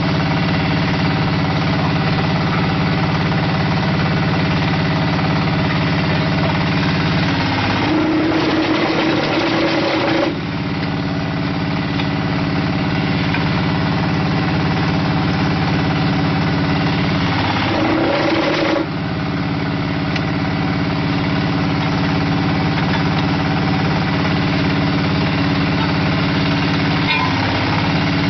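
Small diesel engine of a hydraulic concrete brick machine running steadily. Three times, about ten seconds apart, its note changes and turns rougher for a couple of seconds, in repeated cycles.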